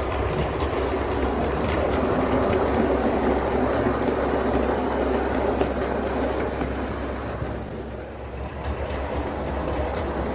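OO gauge model locomotive (Bachmann Midland 1P) running along the layout's track: a steady rumble of motor and wheels on rail, easing briefly about eight seconds in.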